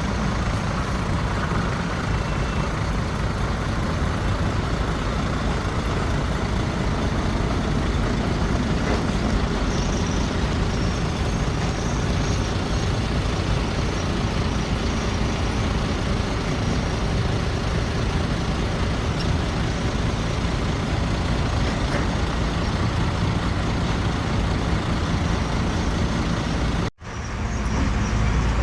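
Heavy diesel earthmoving machinery, a bulldozer and dump trucks, running steadily. Near the end the sound cuts out abruptly for a moment and comes back with a deeper rumble.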